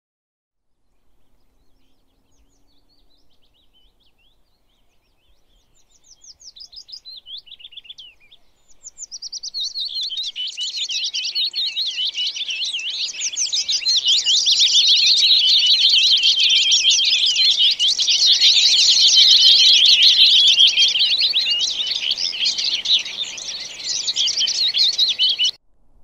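Birds chirping: a few scattered calls at first, building about nine seconds in to a dense, loud chorus of many birds chirping at once. It cuts off suddenly just before the end.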